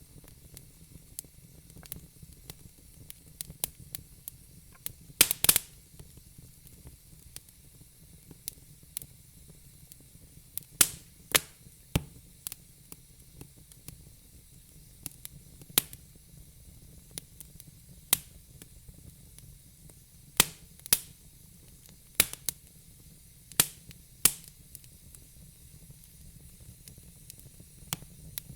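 Wood fire crackling: irregular sharp pops and snaps over a faint steady hiss, with a dozen or so louder pops scattered through.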